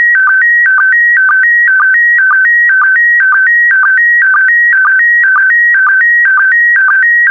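PD120 slow-scan television (SSTV) image transmission: a loud warbling stream of electronic tones whose pattern repeats evenly about twice a second, one cycle per pair of picture lines, each marked by a short lower blip of the line-sync pulse.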